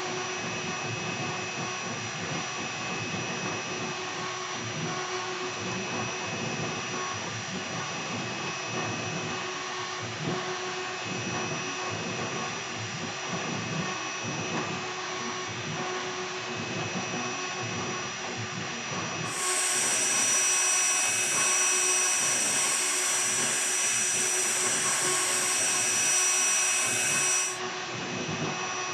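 2.2 kW air-cooled CNC router spindle running steadily with several high whining tones, a 60-degree V-bit cutting into wood with an uneven grinding rumble. For about eight seconds near the end a louder rushing hiss joins, then cuts off suddenly.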